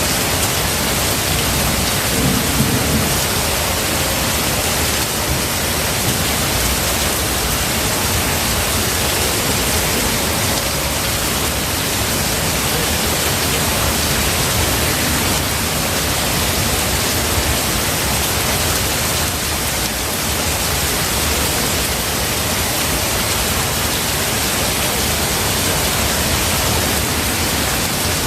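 Steady rain in a forest thunderstorm, with a short low rumble of thunder about two seconds in.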